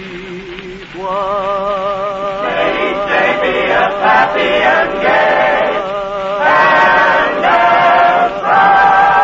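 Choral singing on an old radio broadcast recording: several voices hold long notes with vibrato in harmony, getting louder about a second in and again later as the phrase builds.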